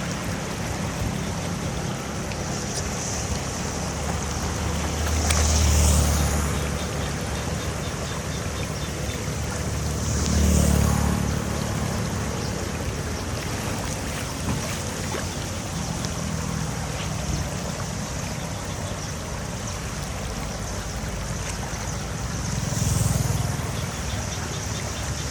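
An engine running steadily under a wash of noise, swelling louder three times.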